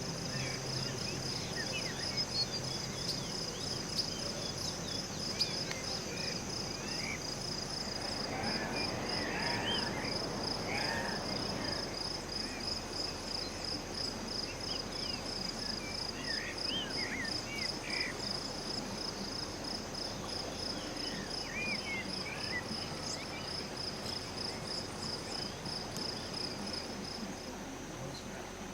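Forest insect, cricket-like, calling a steady high pulsed trill of about two pulses a second; it stops near the end. Short rising and falling chirps from forest birds come and go through the middle.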